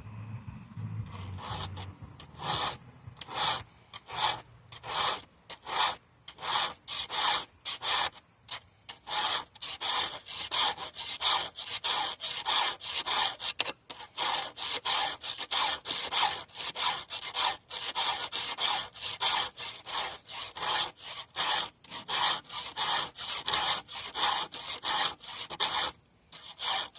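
Hand file scraping across the teeth of a chainsaw chain in steady strokes, about two a second, with crickets chirring steadily behind.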